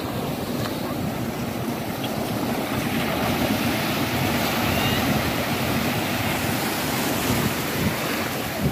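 Ocean surf washing up the beach, with wind rumbling on the microphone; the wash builds and is loudest through the middle seconds.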